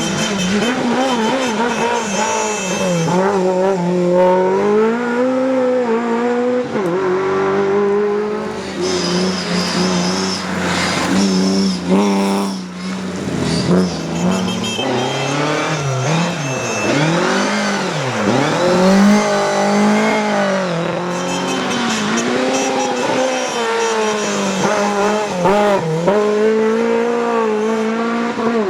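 Rally car engine revving hard and falling back again and again through gear changes and corners, its pitch rising and dropping throughout, with tyres squealing at times.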